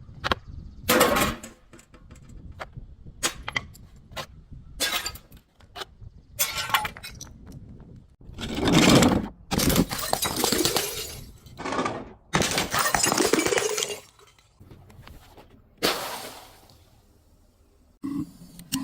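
Glass bottles being broken and crushed: a run of sharp cracks and clinks, then several longer bursts of shattering, crunching glass.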